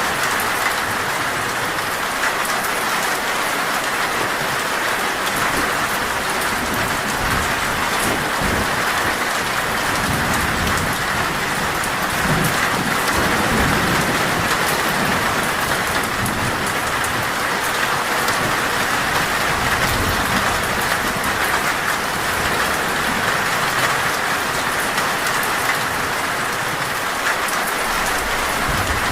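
Heavy rain drumming steadily on a metal roof, with a low rumble of thunder rolling through the middle.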